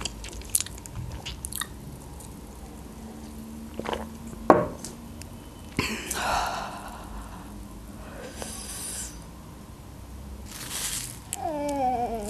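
Close-miked chewing and wet mouth clicks as she eats a very spicy wrap, with a few loud breaths. Near the end comes a short, falling, pained whimper.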